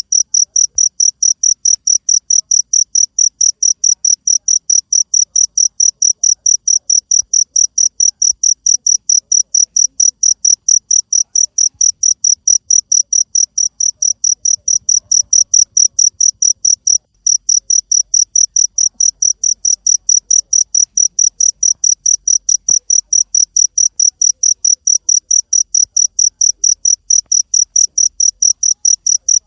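Cricket chirping, a fast, even train of high-pitched chirps, breaking off briefly about two-thirds of the way through.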